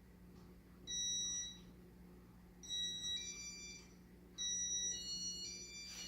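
Electronic beeps from a Casablanca ceiling fan's microprocessor control: one steady beep about a second in, then two short runs of tones stepping down in pitch, around three and five seconds in. A faint steady hum lies underneath.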